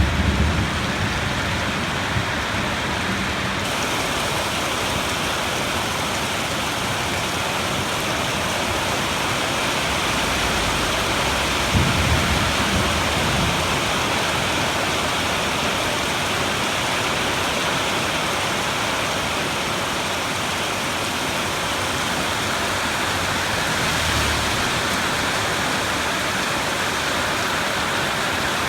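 Steady heavy rain in a thunderstorm, with low rolls of thunder at the start and about twelve seconds in, and a fainter rumble about twenty-four seconds in.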